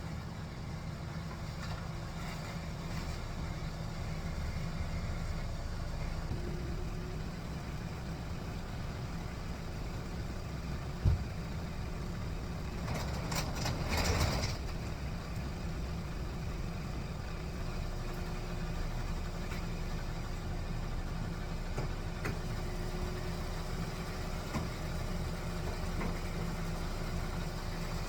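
Steady low mechanical hum, with a single sharp knock about 11 seconds in and a short burst of hissing noise around 13 to 14 seconds in.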